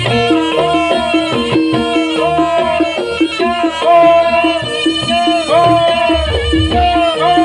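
Live Javanese horse-dance (jaranan pegon) ensemble music. Repeated struck metallic notes run under a gliding, wavering melody line, with drums coming in more strongly near the end.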